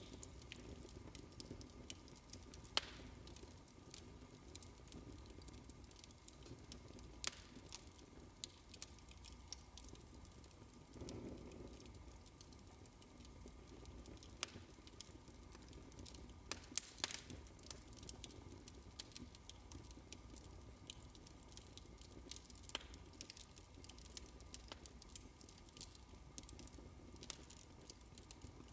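Fireplace crackling: irregular sharp snaps and pops of burning wood over a soft low rumble, with a brief fuller rush about eleven seconds in.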